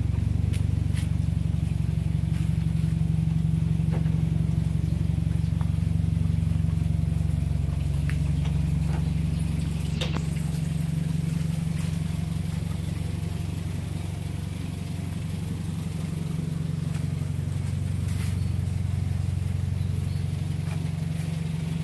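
Car engine idling steadily, a low even hum, with a few light clicks and knocks over it.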